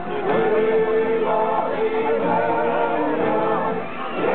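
A group of people singing a campfire song together, with several voices holding long notes.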